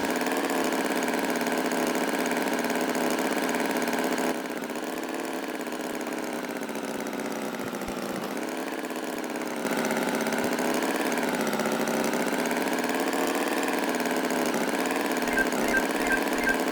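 Engine idling steadily, dropping in level for about five seconds in the middle. A regular musical beat comes in near the end.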